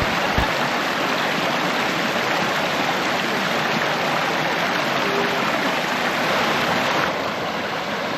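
Flowing creek water rushing steadily, a little quieter from about seven seconds in.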